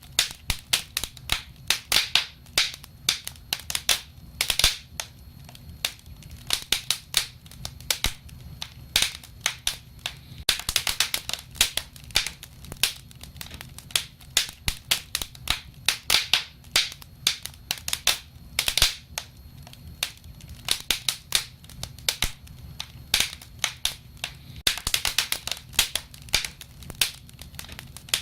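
Wood fire crackling: a constant run of sharp snaps and pops, thickening into quick flurries about ten seconds in and again near the end, over a faint low rumble.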